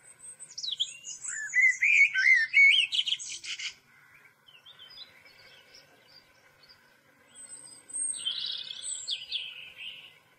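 A songbird singing in two phrases of rapid, varied chirps and warbles. The longer phrase fills the first four seconds and a shorter one comes about eight seconds in.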